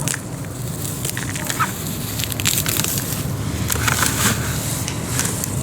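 Weeds being pulled up and grabbed by hand: leaves and stems rustling and crackling, with many small snaps.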